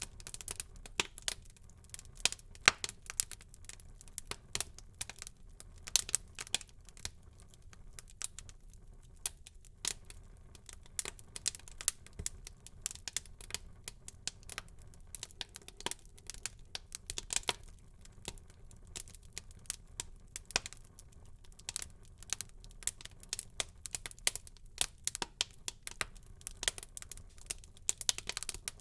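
Wood fire burning in a fireplace, crackling and popping irregularly over a faint low hiss.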